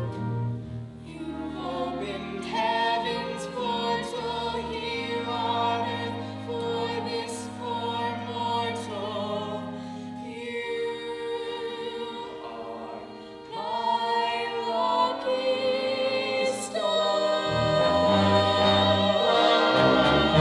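Show tune sung by stage voices over accompaniment, with long held notes. It grows louder in the last few seconds toward the song's finish.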